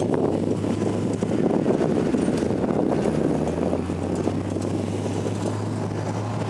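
Medical helicopter running on the ground: a loud, steady drone of engine and rotor with a low hum.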